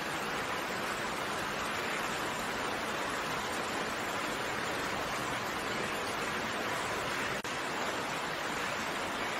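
Steady rain, an even hiss with no single drops or other sounds standing out, with a very short dip in level about seven seconds in.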